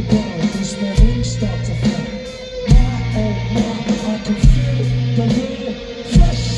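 Live rock band playing an instrumental stretch: guitar over a held bass note, with heavy hits about every second and three quarters.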